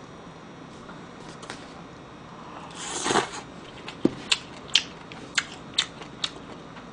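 Close-miked eating of spicy pork stir-fry (duruchigi): a brief slurp about three seconds in as the mouthful goes in, then wet mouth smacks while chewing, about two a second.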